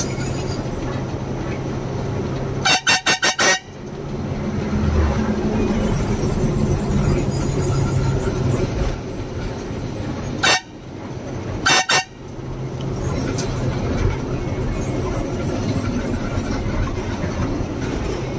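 Truck horn blown in a quick string of about five short toots, then once more, then twice, over the steady running and road noise of the truck while driving.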